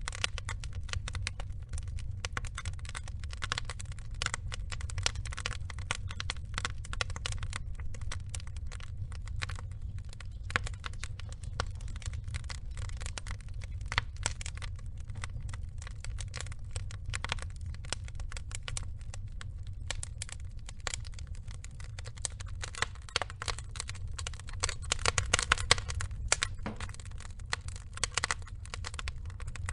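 Burning logs crackling and popping in irregular, closely spaced snaps over a low steady rumble, with a louder flurry of pops about twenty-five seconds in.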